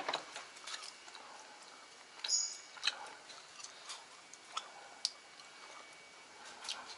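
Scattered light clicks and taps of hand tools being handled, with a brief high squeak a little over two seconds in.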